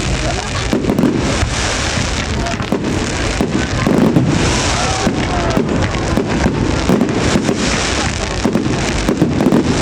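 Fireworks display going off in a rapid, continuous barrage of bangs and crackles, with voices of spectators underneath.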